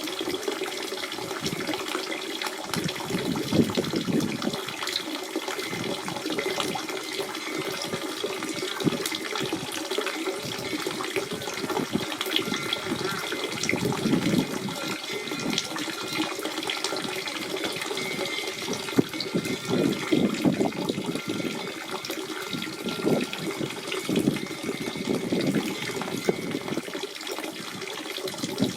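Natural spring water running and splashing steadily, a continuous gurgling flow with small rapid splashes.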